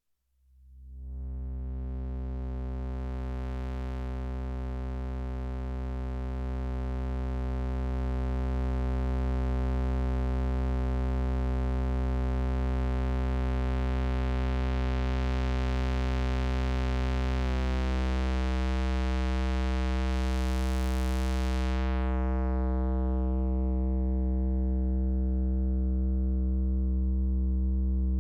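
Synthesizer drone: one sustained low note with a dense stack of overtones, fading in over the first second and swelling slightly. About two-thirds through, the upper overtones shift and a bright hiss swells briefly, then the top end slowly darkens while the low note holds.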